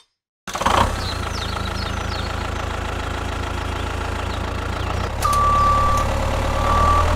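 Steady low drone of an idling heavy-vehicle engine, starting abruptly about half a second in. From about five seconds in it gets louder and an intermittent beeping like a reversing alarm begins.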